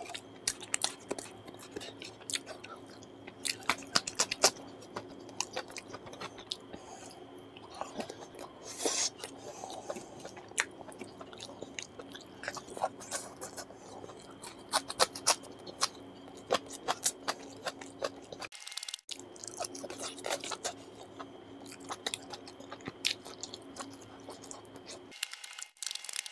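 Close-miked chewing with crunchy bites of raw onion and cucumber, full of sharp wet mouth clicks. A steady low hum runs underneath and cuts out about a second before the end.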